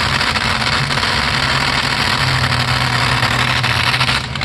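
Pulling tractor's engine running loud and steady at an even speed, with a dense rush of noise over the engine note.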